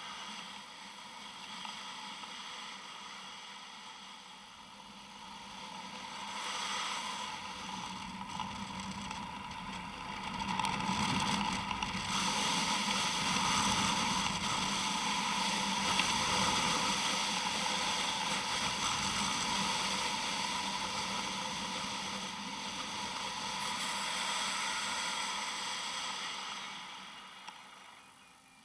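Strong wind rushing and buffeting over the microphone, a steady roar that swells for most of the middle and dies away near the end.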